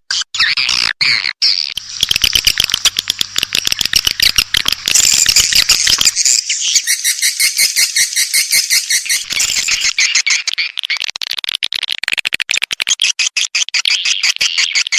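Edible-nest swiftlet calls from a swiftlet-house lure recording: a dense, rapid twittering of chirps and clicks, many a second, played as an attracting call to draw swiftlets into a nest house. A faint low hum runs under the first six seconds.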